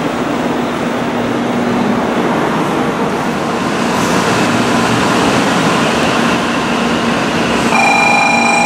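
Shinkansen bullet train running past close by along a station platform: a steady rushing rumble that grows slightly louder. Near the end it changes abruptly, and several steady high tones sound together.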